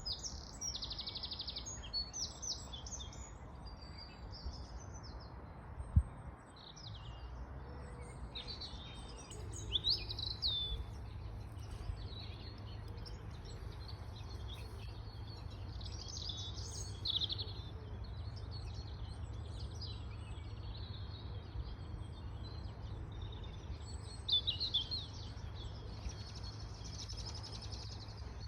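Several wild birds singing and calling outdoors in spring, with many short high chirps and trills overlapping. A steady low rumble sits underneath, and a single dull thump comes about six seconds in.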